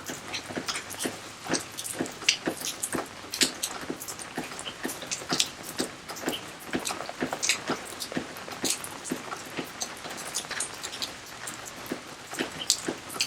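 Rain falling on water and garden surfaces: a dense, irregular patter of sharp drips and splashes.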